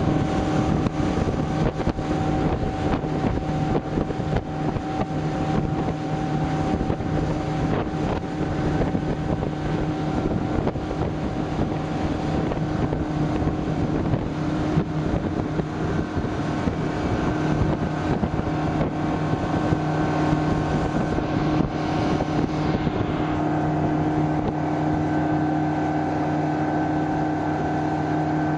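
A RIB tour boat's engine running steadily at cruising speed, with wind rushing over the microphone. About three-quarters of the way through the wind noise drops off and the engine's steady hum is left more clearly.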